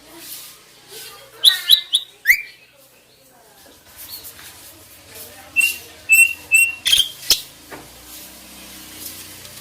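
Starlings and mynas (jalak) calling: a cluster of loud chirps and a steep pitch sweep about two seconds in. Then comes a run of short whistled notes, ending in two sharp loud calls around seven seconds.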